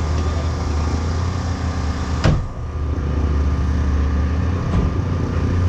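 True Street drag car's engine running steadily at idle with a deep hum, and a single sharp click a little over two seconds in.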